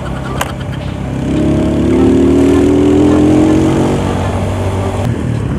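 Motorcycle engine running on the move, heard from the rider's seat with wind and road noise; its note rises steadily from about a second in as the bike accelerates, then eases off near the end.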